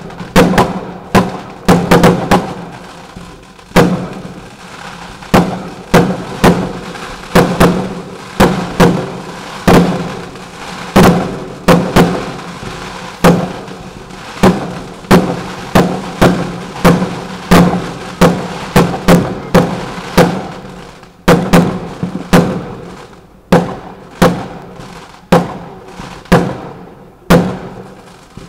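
Fireworks exploding in quick succession: a long run of loud bangs, about one to two a second, each with an echoing tail.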